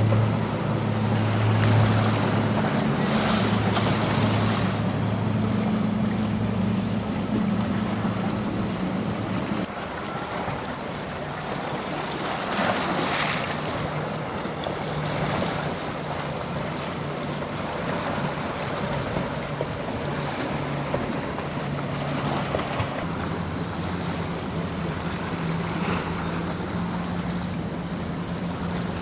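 Boat engines droning steadily over the wash of surf and wind buffeting the microphone; the engine note changes about ten seconds in.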